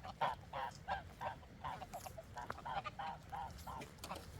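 Farm fowl calling over and over in short, honking calls, about three a second.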